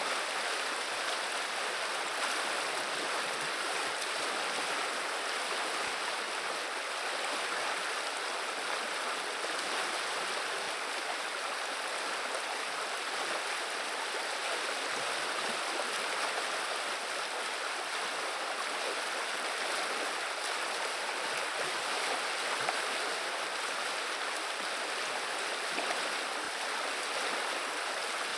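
Viliya river water flowing and babbling steadily, an even rushing murmur with no breaks.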